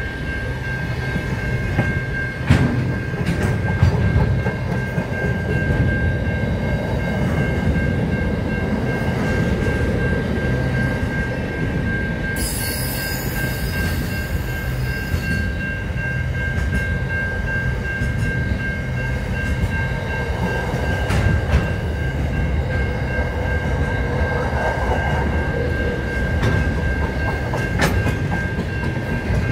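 Container freight train passing at speed: a steady rumble of wagons and wheels, with sharp clicks as wheels cross rail joints. A steady high tone runs underneath, and a high hiss comes in for about three seconds near the middle.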